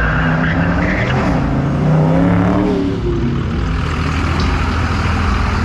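A vehicle engine revving hard, its pitch rising and falling repeatedly, over a steady rushing noise.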